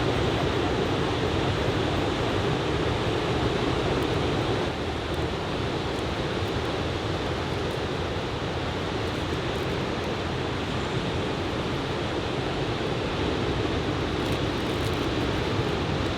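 Surf from a typhoon swell breaking and washing ashore: a steady, unbroken rush of wave noise that eases slightly about five seconds in.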